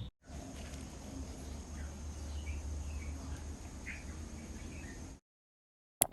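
A few faint, short calls from a caged red-whiskered bulbul over a steady low background rumble, which cuts off suddenly about five seconds in; a single sharp ding comes at the very end.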